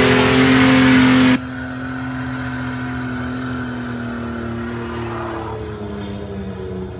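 Car engine held at high revs through a burnout, its tyres spinning in smoke. A loud rushing noise over it cuts off suddenly just over a second in, leaving the engine's steady high-rev note, which sags a little and then shifts pitch near the end.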